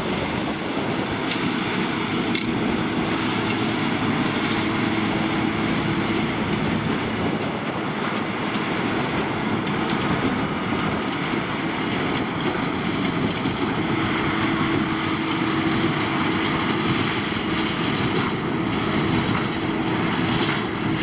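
Case IH Puma 215 tractor and Massey Ferguson 2170 large square baler running steadily under load while baling straw, a continuous machinery noise with a steady drone.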